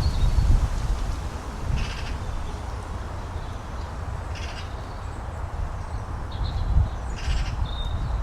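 Three short, harsh bird calls, evenly spaced about two and a half seconds apart, with a couple of faint thin high notes near the end, over a steady low rumble of wind on the microphone.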